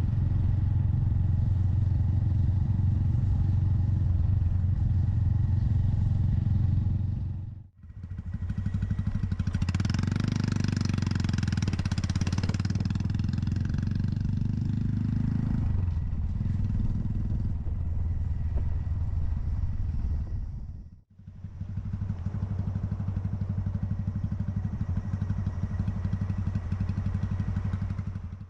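Honda Monkey 125's single-cylinder four-stroke engine running steadily on the move, heard from on the bike. A louder rushing noise rises over it for several seconds in the middle, and the sound breaks off briefly twice.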